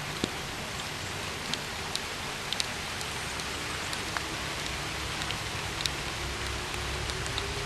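Steady rain: an even hiss with scattered sharp drops hitting a surface.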